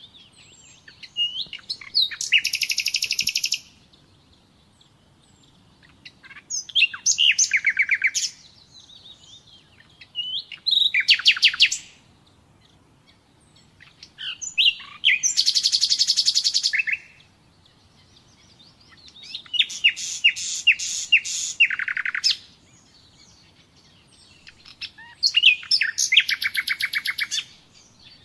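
Common nightingale singing: six loud phrases of a second or two each, most built on fast runs of repeated notes, with pauses of about two seconds between them. Fainter high chirping fills the pauses.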